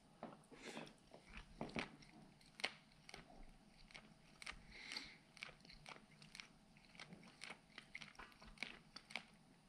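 A person chewing a mouthful of canned pink salmon, heard faintly as soft, irregular mouth clicks and smacks.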